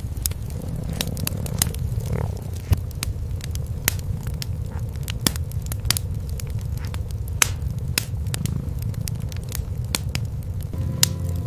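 Wood fire in a fireplace crackling with sharp, irregular pops, over the low, steady rumble of cats purring.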